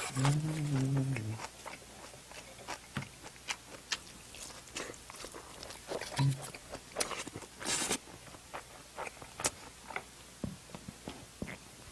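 Close-miked eating sounds: chewing, wet mouth smacks and small clicks going on all through. A closed-mouth 'mm' hum of enjoyment runs for about the first second, and there is one brief louder rush about two-thirds of the way in.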